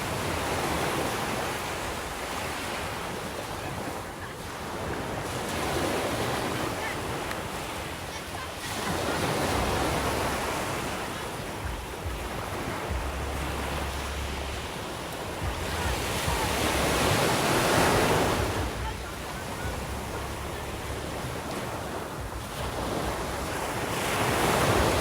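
Sea waves washing onto the shore: the surf swells and falls back over and over, with about five larger surges a few seconds apart.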